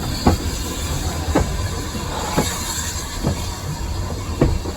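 Railway carriage running along the track, heard from inside: a steady low rumble with a knock from the wheels crossing rail joints about once a second.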